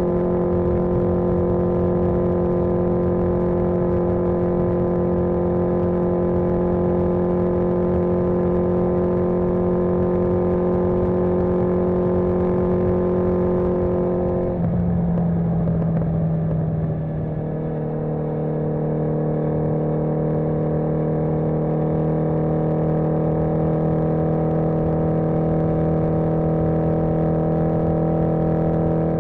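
1981 Yamaha XJ650 Maxim's air-cooled inline-four engine running at steady cruising speed. About halfway through, the engine note changes and dips briefly in loudness, then settles to a new steady note.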